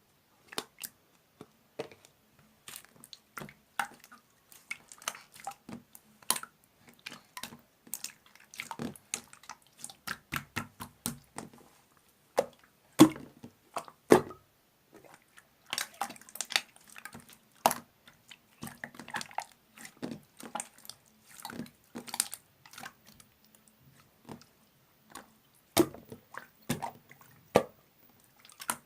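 Clear slime being squished and pressed by hand, making irregular wet clicks and pops, several a second, with one louder pop about thirteen seconds in.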